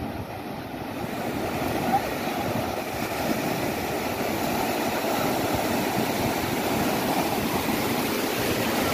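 Surf washing onto a beach: a steady, even rush of breaking waves, swelling slightly after the first second.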